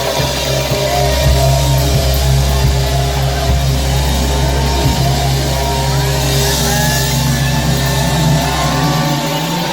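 A live band playing loud amplified music, with sustained gliding melody lines over a heavy low bass, which drops out near the end.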